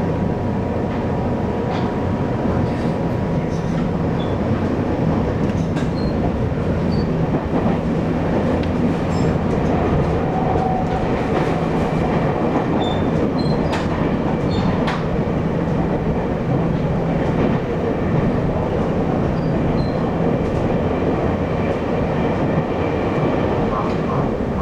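Taiwan Railways local express train running along the line, heard from inside the carriage: a steady rumble of wheels on rail with a low hum under it and occasional short clicks.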